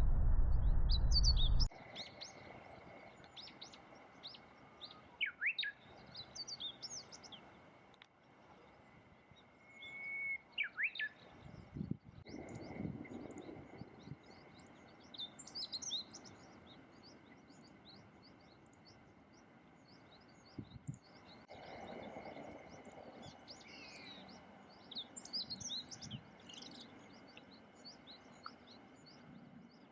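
Small songbirds giving many short, high chirps and calls scattered through the clip. A faint steady high tone runs underneath, and a loud low rumble cuts off suddenly in the first two seconds.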